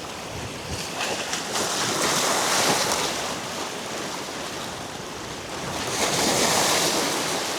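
Surf washing against the rocks of a jetty, swelling twice as waves come in, with wind on the microphone.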